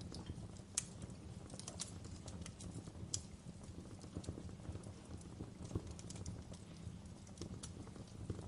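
Wood fire crackling in a fireplace: irregular small pops and snaps, a few sharper ones, over a steady low rumble of burning.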